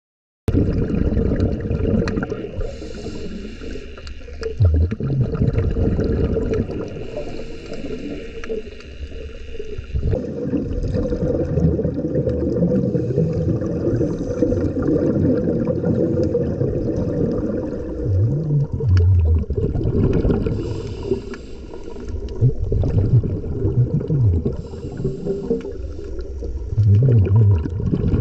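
Muffled underwater water noise with a low rumble and several short low gurgles, as picked up by a camera's microphone under the sea.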